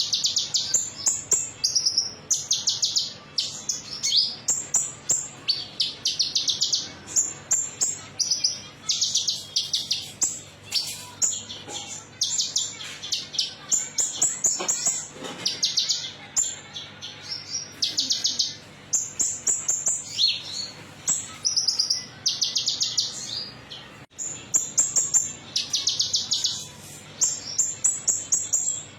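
A konin songbird singing its high-pitched 'metalik' song: rapid, fast-pulsed trills in short phrases repeated with brief pauses, over a faint low hum. It is a lure song (pancingan) played to bird keepers' birds to stimulate and teach them this song.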